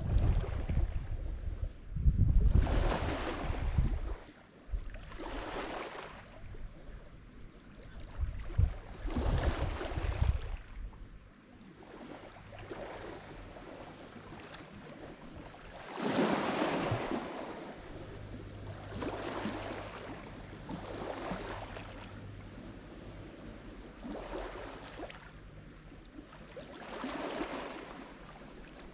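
Lake Michigan waves breaking on the shore, a rushing surge every few seconds, with wind rumbling on the microphone through the first ten seconds or so.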